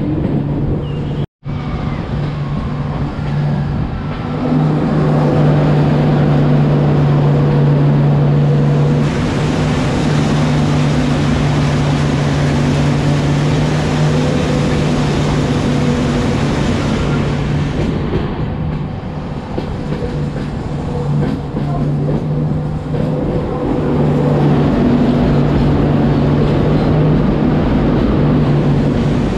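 Express passenger train running, heard from aboard: a steady rumble with a strong low drone. The sound drops out for an instant just over a second in, and grows louder at about four and a half seconds.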